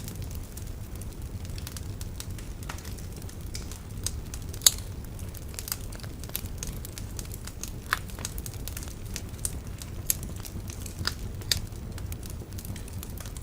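Wood bonfire burning and crackling, with irregular sharp pops, the loudest just under five seconds in, over a steady low rumble.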